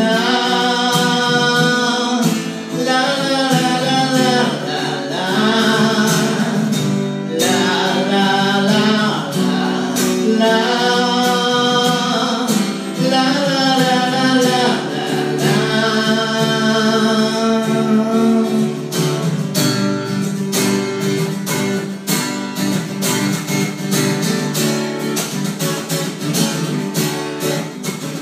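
A singer accompanying himself on guitar, a sung vocal line with held notes over guitar. The voice stops about two-thirds of the way through, leaving the guitar strumming on its own.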